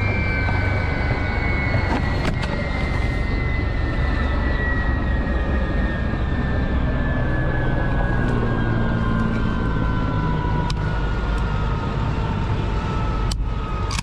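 A steady engine rumble with a high whine that falls slowly in pitch, and a couple of sharp clicks near the end.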